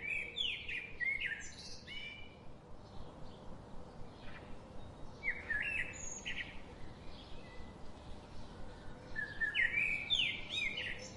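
Songbird singing: three bursts of quick chirps and sweeping notes, a few seconds apart, over a faint steady hum.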